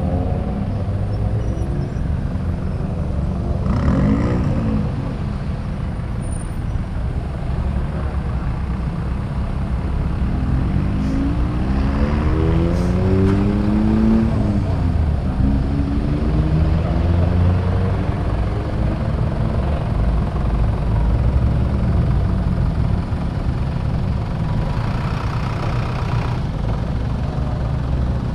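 Modified cars driving out one after another, their engines and exhausts rumbling, with engine notes rising and falling in pitch as cars rev and pass, most clearly a few seconds in and again about halfway through.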